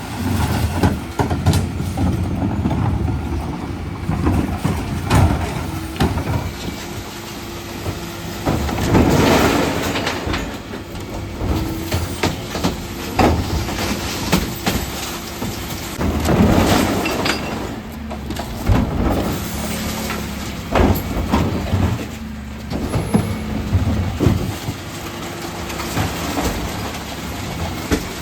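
Dennis Elite refuse truck working a recycling collection: the engine and hydraulic bin lift run with a hum that comes and goes, under repeated clattering and knocks as bins are lifted and tipped. Two longer, louder rushes of noise come about nine seconds in and again about seven seconds later.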